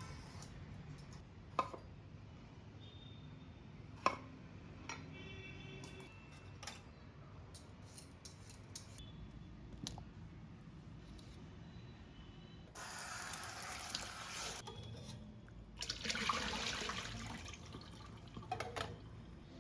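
Kitchen work: a few light clicks and knocks of utensils, then two spells of water running or being poured, each lasting a couple of seconds, in the second half.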